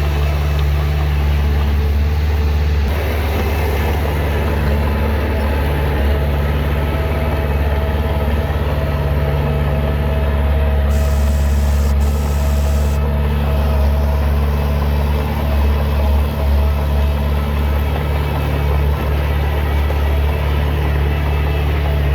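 Heavy diesel earthmoving machinery running steadily, a deep low engine drone with no marked revving.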